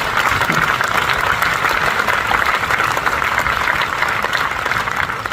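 Concert audience applauding, a steady clatter of many hands clapping.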